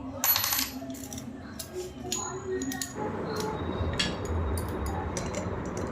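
Small metal clinks and handling noises as a bearing puller is handled and set against a ceiling fan's motor bearing, with a short hissing burst just after the start.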